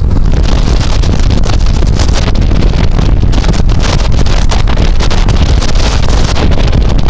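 Loud wind buffeting the microphone through the open windows of a moving car, over a low rumble of road noise.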